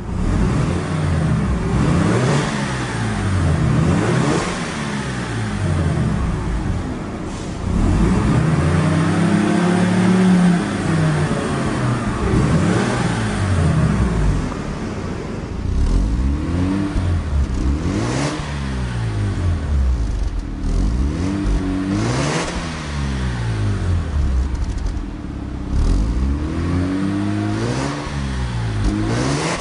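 A 1993 Mazda RX-7's 1.3-litre twin-turbocharged rotary engine being revved over and over in short blips, roughly one every second or two, each rising and falling in pitch. One longer rev is held about eight to twelve seconds in.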